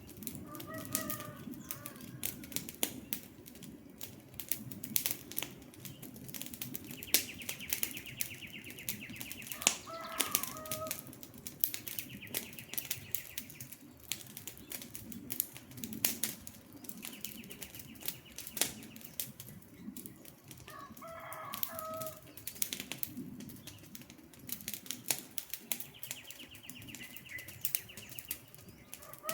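Wood campfire crackling and popping with a soft steady rush of flame. Over it, a bird call recurs about every ten seconds, and a short high buzzy trill sounds several times in between.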